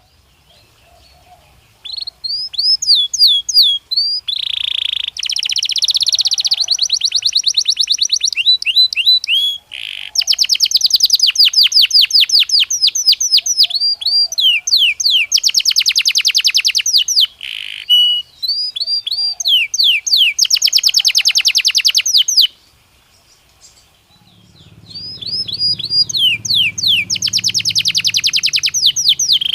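Belgian canary singing: long phrases of fast repeated notes and rolling trills mixed with quick sweeping whistled notes. The bird is silent for the first two seconds and pauses again for about a second and a half near the end.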